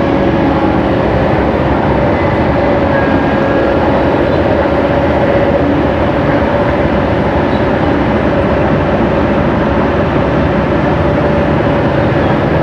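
Excavator's diesel engine running steadily under load while dredging, a continuous drone with a held hum.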